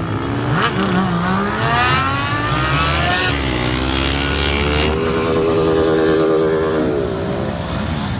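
Motorcycle engines revving hard, the pitch climbing for about two seconds, dropping briefly, then held high for about two seconds before falling away near the end.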